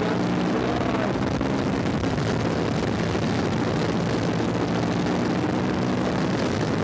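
KTM 1290 Super Duke R's 1301 cc V-twin engine running hard at high speed on a straight, its steady note mixed with heavy wind rush over the onboard microphone.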